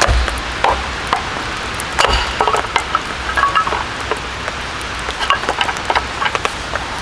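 Rain falling on a tent, a steady hiss with many scattered drops ticking on the fabric, mixed with irregular knocks and a few light metallic clinks about two to three and a half seconds in.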